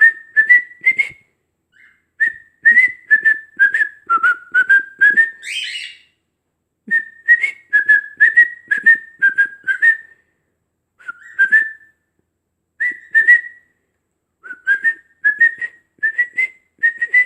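Pet bird whistling a tune: phrases of short, clipped whistled notes near one pitch, separated by brief pauses, with one phrase ending in a rising note about six seconds in.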